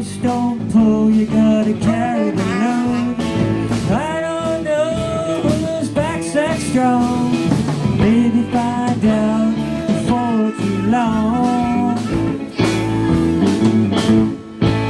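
Live band playing an instrumental break in a blues-rock tune: a lead guitar bending and sustaining notes over bass and drums.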